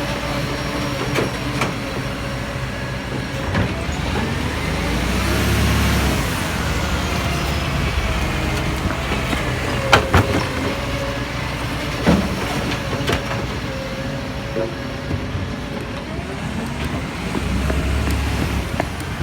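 Garbage truck engine running with a steady whine over it. The engine swells about five seconds in, and there are sharp bangs about ten and twelve seconds in.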